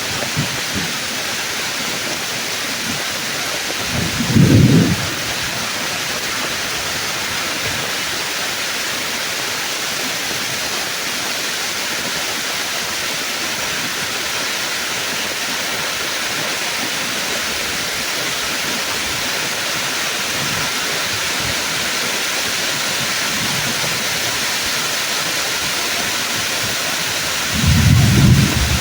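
Steady heavy rain pouring on the trees' leaves, with a brief burst of thunder about four seconds in and thunder rumbling again near the end.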